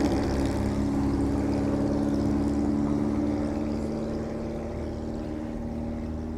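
An engine running with a steady drone that slowly fades as it moves away.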